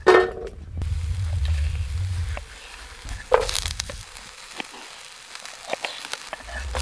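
Sliced red onion tipped into hot oil in a frying pan on a small camp stove, hitting the pan and then sizzling steadily. Sharp knife taps on a wooden chopping board as a yellow pepper is sliced, and a low rumble during the first couple of seconds.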